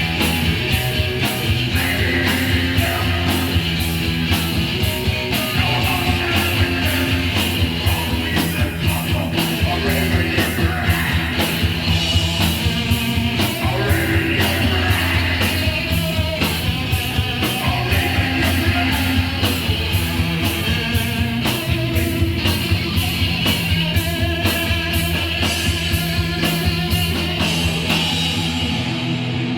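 Live hardcore punk band playing at full volume: distorted electric guitar and bass over a fast, steady drum beat. Near the end the cymbals stop.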